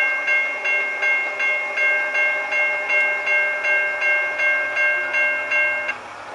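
Railroad bell ringing fast and evenly, about three strikes a second, then stopping abruptly near the end.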